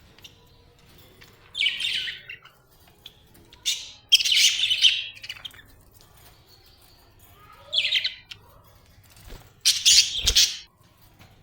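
Budgerigar chirping in four short bursts of rapid, high-pitched chatter, a couple of seconds apart.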